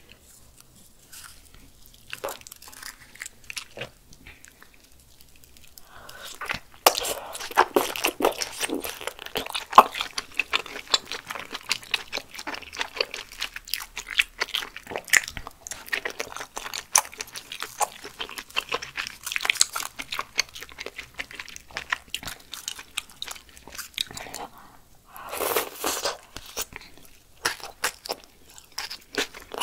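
Close-miked eating of spicy malatang with fresh cilantro. It is mostly quiet for about the first six seconds. After that come steady crunchy, wet chewing and biting sounds.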